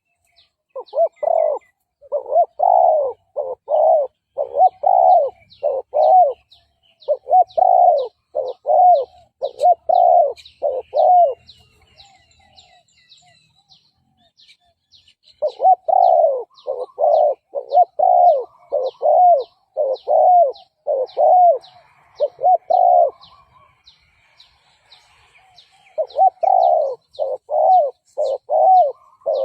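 Spotted dove cooing: quick runs of short, repeated coos, about two a second. There are three runs, with pauses of a few seconds between them.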